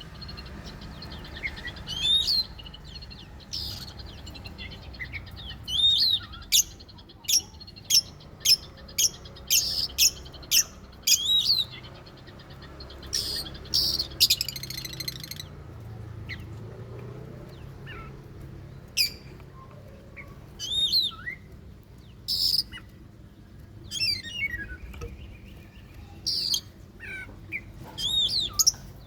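Oriental magpie-robin (kacer) singing: varied whistled phrases with sweeping notes, a quick run of sharp notes, and a longer harsh rasping call partway through. A faint low hum runs underneath.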